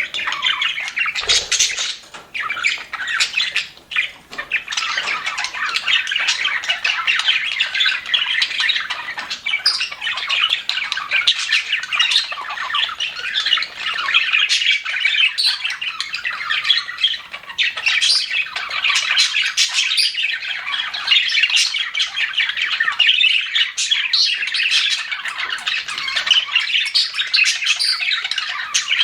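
A group of budgerigars (parakeets) chattering and warbling without pause, a dense stream of overlapping chirps and squawks.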